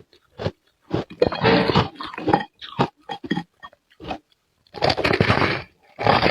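Close-up crunching of ice being bitten and chewed, in irregular bursts of crisp crunches with short gaps between them.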